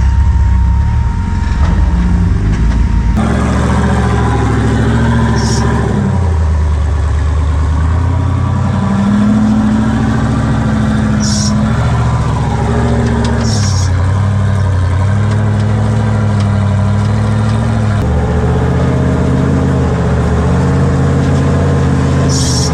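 Rock-crawling buggy engine revving up and down again and again under load as the buggy works its way over rocks, with a few short clicks or knocks.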